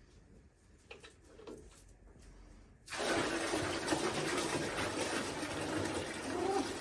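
Water pouring out in a steady rush, starting suddenly about three seconds in and running for about four seconds.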